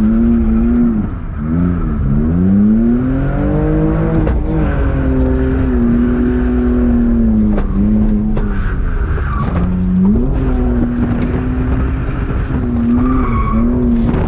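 BMW E46 drift car's engine revving hard. It climbs at the start, dips and wobbles briefly about a second in, then holds high revs with a few short dips.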